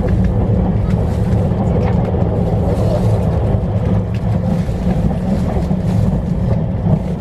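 Steady low rumble of a moving train heard from inside the passenger car.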